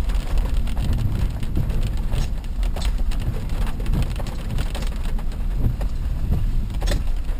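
A steady low rumble with many scattered sharp ticks, like rain striking a surface.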